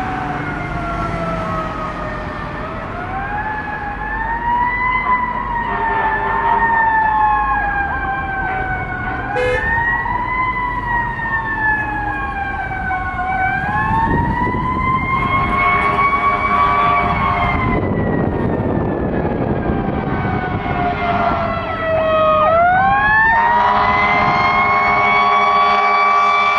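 Fire engine siren wailing, its pitch rising and falling in slow sweeps a few seconds apart, over the truck's engine. Near the end the siren drops low and then climbs back to a high, steady wail.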